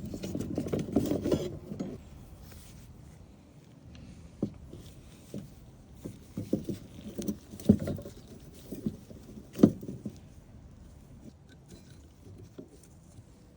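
Rustling and handling for about the first two seconds, then scattered light knocks and taps at irregular intervals, the sound of hand work with tools and parts.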